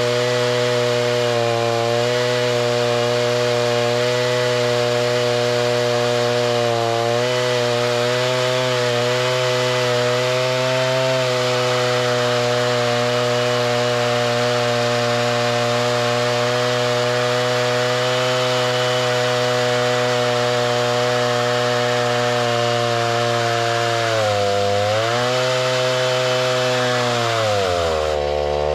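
Small petrol engine of a saw running steadily under load, cutting lumber. Its pitch sags twice near the end.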